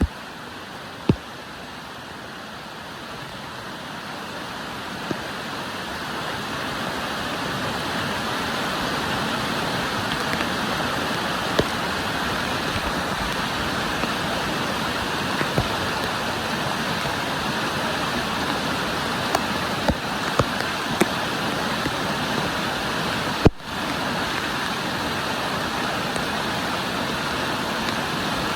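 Rushing water of a mountain stream, a steady noise that grows louder over the first several seconds and then holds, with a few scattered sharp clicks.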